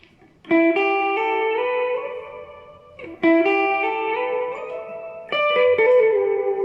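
Electric guitar played through a Line 6 HX Stomp multi-effects unit set to a delay patch: three short arpeggiated phrases, each a run of notes stepping upward and ringing on.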